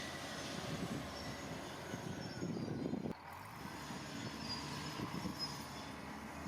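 Heavy construction machinery working: a steady engine rumble with faint high-pitched metallic squealing, typical of steel crawler tracks. The sound drops away suddenly about three seconds in, then carries on more quietly.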